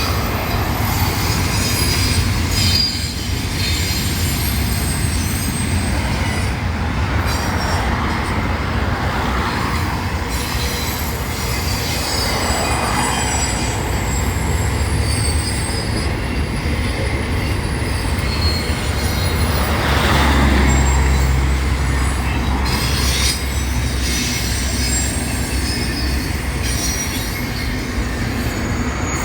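Cars of a CSX intermodal freight train rolling past, a steady rumble and rattle with steel wheels squealing high and thin on the rails. The low rumble swells about twenty seconds in.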